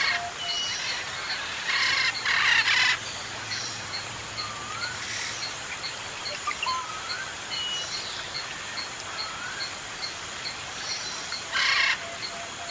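Several forest birds calling: loud harsh, raspy calls about two seconds in and again near the end, over a steady run of high ticking notes and scattered short whistles.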